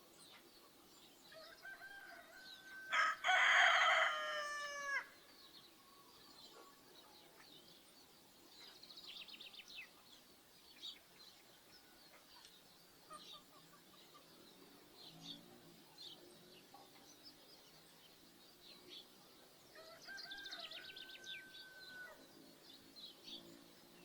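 A rooster crows loudly about three seconds in, one long call of about two seconds that drops in pitch at the end, and a fainter crow follows near the end. Small birds chirp throughout.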